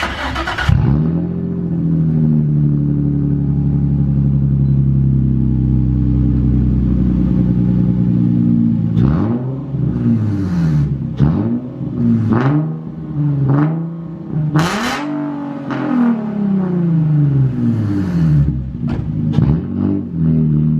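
Nissan 350Z's VQ35 V6 running through a custom dual-pipe exhaust with the stock catalytic converters still fitted. It holds a steady note for about eight seconds, then is revved again and again in short rising-and-falling blips.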